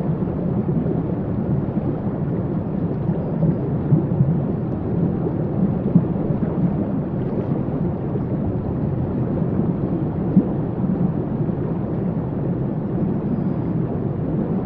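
Waterfall: a steady, deep rush of falling water with no letup.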